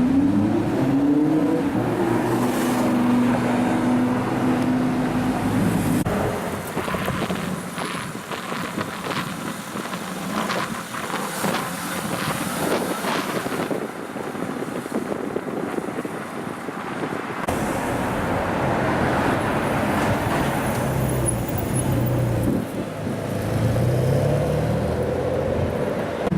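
High-performance sports car engines revving and accelerating on a city street, the pitch climbing and stepping up through the gears. In the middle there is a stretch of traffic noise with sharp clicks.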